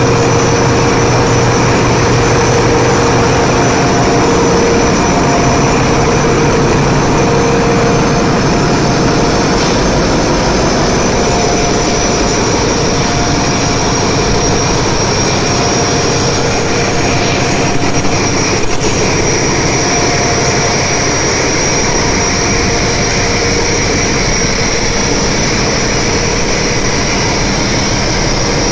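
Ship's engine-room machinery running: a loud, steady mechanical drone with a few constant tones through it and a couple of faint clicks partway through.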